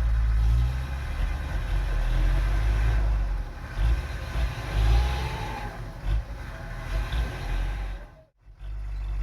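Heavy dumper truck's diesel engine running hard, its low rumble rising and falling as it is revved. The sound drops out briefly near the end.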